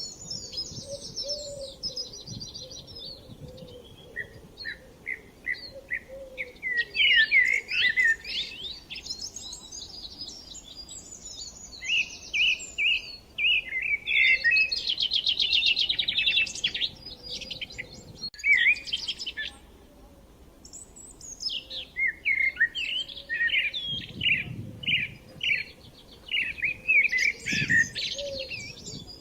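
Several songbirds singing over one another in a woodland chorus: varied chirps, clear whistles and fast trilled phrases, thinning out briefly about two-thirds of the way through.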